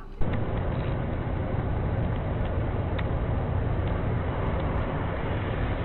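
Steady engine and road noise of a moving vehicle as picked up by a dashcam, starting abruptly just after the beginning, with a few faint ticks.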